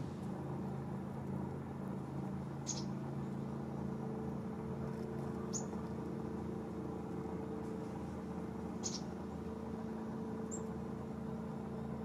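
Four short, high, thin bird chirps a few seconds apart, each falling in pitch, over a steady low hum.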